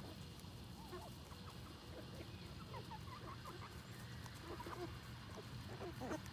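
Backyard chickens clucking softly, many short calls overlapping and growing busier near the end, as the flock crowds round feeding.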